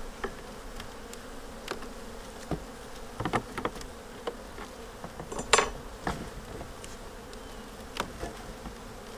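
Honeybees buzzing steadily around an open hive, with scattered knocks and scrapes as wooden frames are worked and their dirty end bars cleaned. The loudest is a sharp knock about five and a half seconds in.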